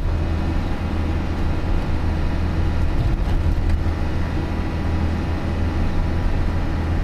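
A truck's engine running steadily, with a constant low hum and no change in speed or load.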